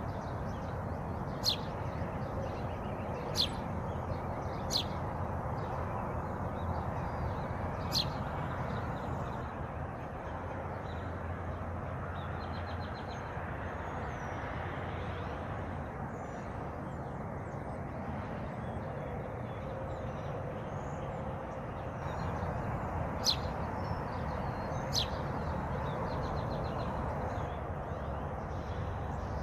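Wild birds calling over a steady rushing background: about six sharp, brief, down-slurred chirps, four in the first eight seconds and two more near the end, with faint high twittering in between.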